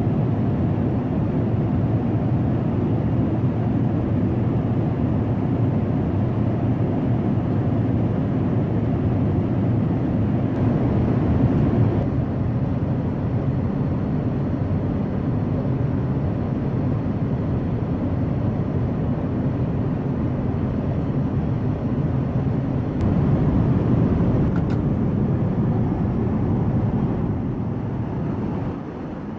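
Steady low rush of an Airbus A380's cabin in flight, air and engine noise, its level stepping up or down a few times.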